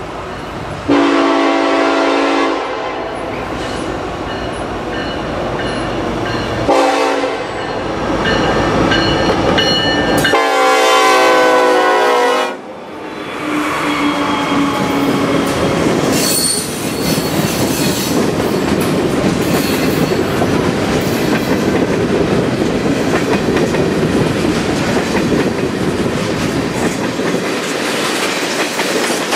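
Norfolk Southern diesel freight locomotive sounding its air horn for a grade crossing: a long blast, a short one, then the longest blast about ten seconds in. After that comes the steady rumble and clickety-clack of the locomotives and tank cars rolling past.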